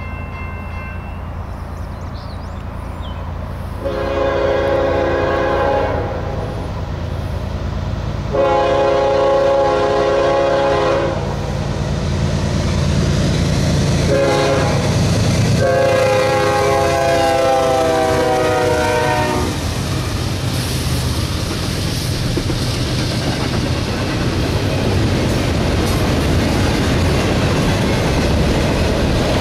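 Diesel freight locomotives sounding a multi-chime horn as they approach: two long blasts, a short one, then a long one, the grade-crossing pattern, over a low engine rumble. The last long blast sags in pitch as the locomotives pass. After that, loaded double-stack container well cars roll by with a steady rush of wheel and rail noise.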